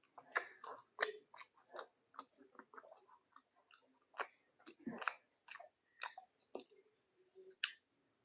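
A person chewing and eating food: a run of small, irregular mouth clicks and smacks.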